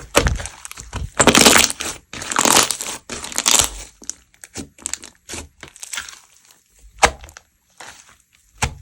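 Slime being squished and pressed by hand: three bursts of dense crackling in the first four seconds, then scattered sharp pops and clicks.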